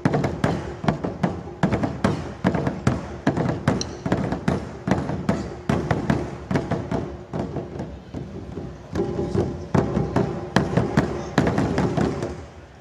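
Drum-led music: sharp drum strikes several times a second over a few held tones, stopping abruptly near the end.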